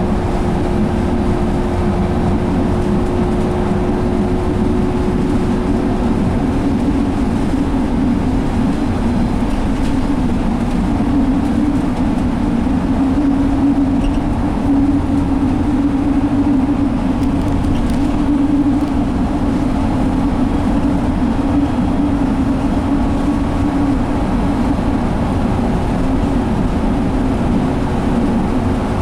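Steady drone inside the cabin of a 2017 Alexander Dennis Enviro500 double-decker bus at speed: its Cummins ISL diesel engine running under the tyre and road noise. A faint steady hum fades out after several seconds and returns near the end.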